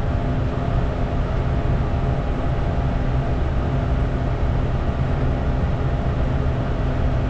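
Steady interior noise of a Bombardier Challenger 350 business jet in the climb: an even rush of engine and airflow noise with a constant low hum underneath.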